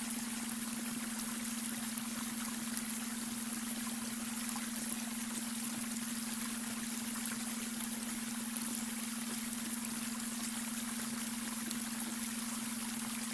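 Babbling brook, water running and trickling steadily over stones, with a steady low hum underneath: a synthetic beta brainwave tone layered into the water sound.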